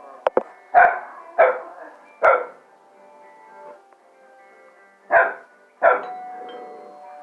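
Dog barking in reaction to a doorbell: three barks about half a second to a second apart, a pause of nearly three seconds, then two more. Background music plays underneath.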